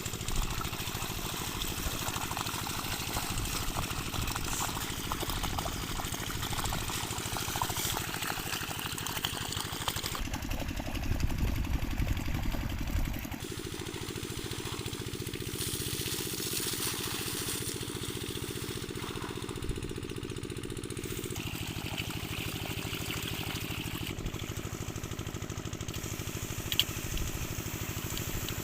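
Single-cylinder 8 HP diesel engine running steadily, driving an irrigation water pump, its rapid even firing beat continuous; the sound shifts abruptly several times.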